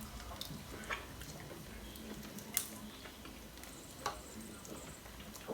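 Faint chewing and mouth sounds of people eating roast chicken, with three soft clicks about a second and a half apart.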